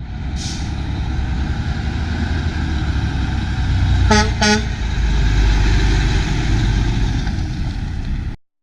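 Mack dump truck's MP7 diesel engine running heavily, with two short horn toots about half a second apart a little past the middle. The engine sound cuts off suddenly near the end.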